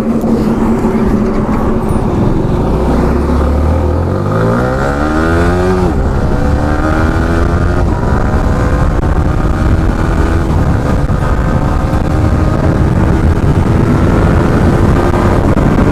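Yamaha R15M's single-cylinder engine under hard acceleration: its pitch climbs steeply for a few seconds, drops at a gear change about six seconds in, then runs steadier and slowly rises again, over a low wind rumble.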